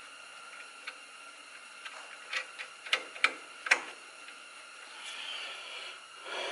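Light metallic clicks and taps of bolts and tools while the bolts of a brake hose bracket are threaded in by hand, with four sharper clicks about two to four seconds in, then a brief rustle.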